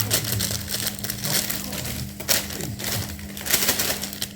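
Cornflakes being refilled from their packet into a container: dry flakes and packaging rustling in uneven bursts.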